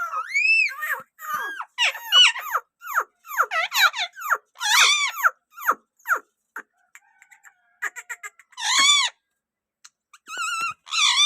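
Green ringneck parakeet calling: a quick run of short, high chirping calls, each arching up and down in pitch, for about six seconds. After a pause with a few faint clicks comes one longer call, and then a quavering, trilled call near the end.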